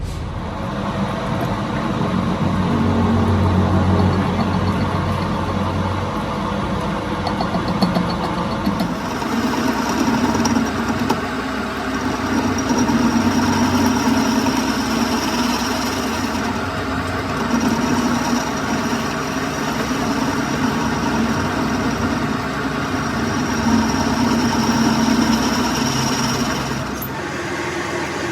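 A metal lathe's motor and gearing running steadily. The sound changes abruptly about nine seconds in and again near the end.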